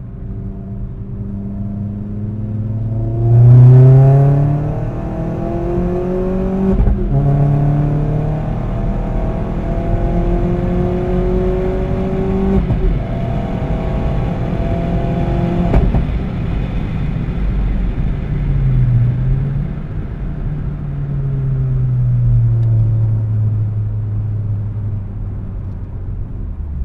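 Vauxhall Astra VXR's turbocharged 2.0-litre four-cylinder engine, heard from inside the cabin, pulling hard at full throttle. Its note climbs through the gears with two quick upshifts, loudest as it first pulls away. About sixteen seconds in it lifts off, and it winds down steadily as the car slows for a corner.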